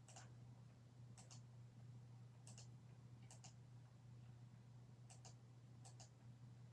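Faint, sharp clicks, about nine of them and several in quick pairs, over a steady low hum in an otherwise near-silent room.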